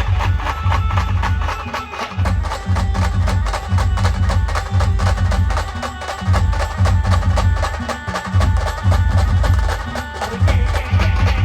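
Band playing a fast dance song. A quick, even percussion beat runs over heavy pulsing bass, with sustained melody notes above.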